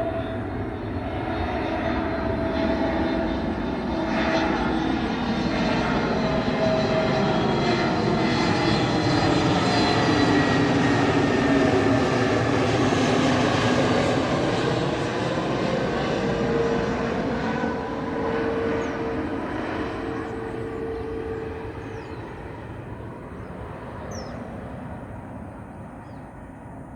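Airbus A320neo twin-engine jet airliner coming in to land and passing by. The engine noise builds to a peak about halfway through, its whine dropping in pitch as it goes past, then fades away.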